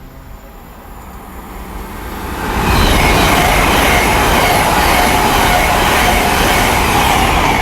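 A Class 802 IET high-speed train passing through the station at speed. A rush of wheels and running gear builds over the first few seconds, then stays loud and steady with a few held whining tones, and begins to fade right at the end.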